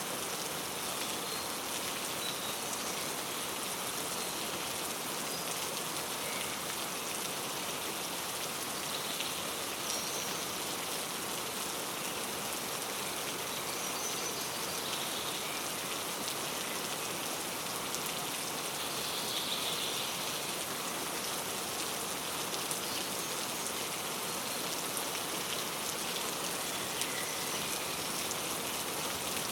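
Steady rain falling, with faint, scattered bird chirps over it now and then.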